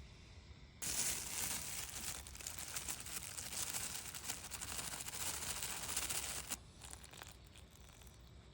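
Crinkling and rustling, like something dry or plastic being handled, starting suddenly about a second in and stopping near the end.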